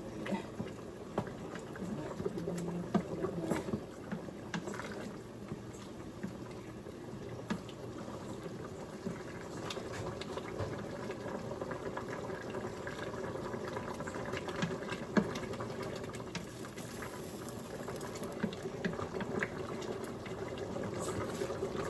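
Pot of chicken and dumplings bubbling steadily at a boil on the stove, with many small pops and an occasional sharper click.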